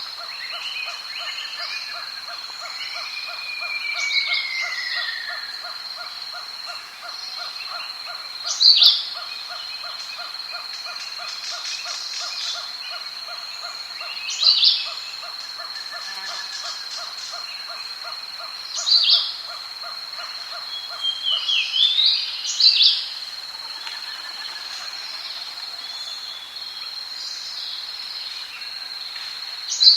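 Rainforest ambience: a bird gives loud, sharp upsweeping calls about every five seconds over a steady high insect drone. A fast, even pulsing chorus runs beneath them and fades out about halfway through.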